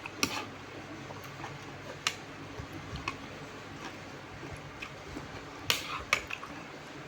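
Spoon or other cutlery clinking against a bowl four times: sharp clicks about a quarter second in, about two seconds in, and two close together near the end, over a steady background hiss.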